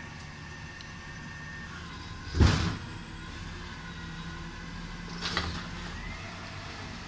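Recycling truck running with a steady engine hum and a thin whine. A single loud bang about two and a half seconds in, then a smaller, higher clatter around five seconds in.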